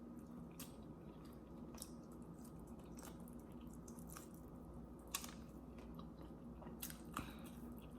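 A person chewing food, faint, with soft mouth clicks every second or so.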